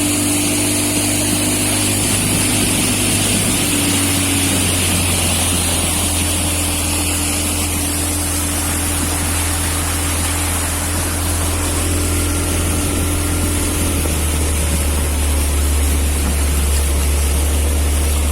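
A speedboat's 40 hp outboard motor running steadily at speed under the rush of wind and water. Its low note drops somewhat about fourteen seconds in.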